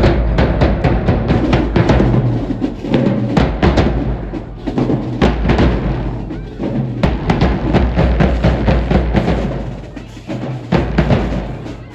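Marching band drumline playing loud, with heavy bass drums under quick sharp drum hits.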